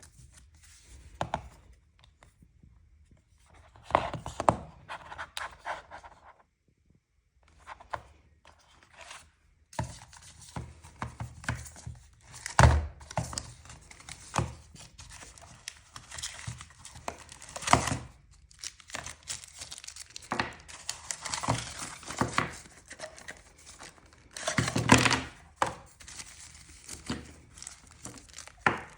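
Packaging and contents being handled during an unboxing: plastic and paper crinkling and tearing, with scattered thunks and knocks as items are lifted out and set down. One sharp knock comes a little under halfway through.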